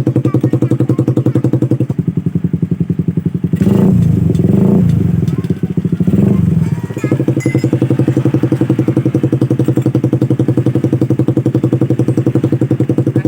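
Suzuki Satria FU's 150 cc single-cylinder four-stroke engine idling loudly through an aftermarket racing exhaust. It is revved in two bursts a few seconds in, then drops back to a steady, throbbing idle.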